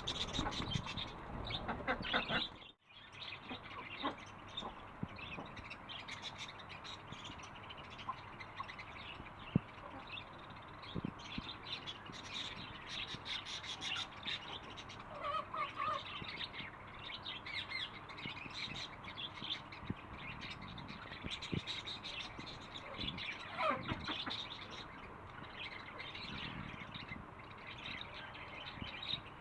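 Pet birds chirping and tweeting, many short calls overlapping, broken by a brief drop-out about three seconds in, with a louder call about halfway through and another gliding one near the end.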